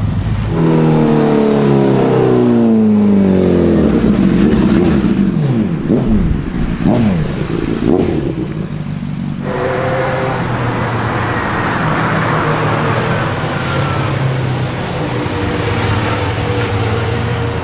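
Sport motorcycle engines revving and passing, their pitch sliding down as several bikes go by in the first half. About halfway through the sound changes abruptly to engines running more steadily.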